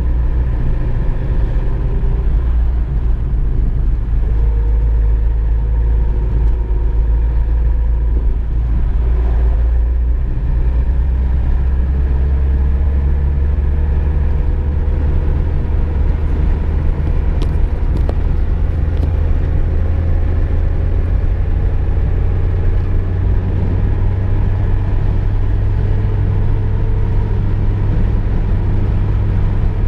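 VW Golf II driving, heard from inside the cabin: a steady low drone of engine and road noise. About ten seconds in, the drone shifts up to a somewhat higher note.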